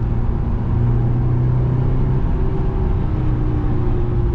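2007 Honda S2000 AP2's four-cylinder engine running at a steady cruise with tyre and road noise, heard from inside the cabin; the engine's pitch holds nearly level, with only a slight rise and fall.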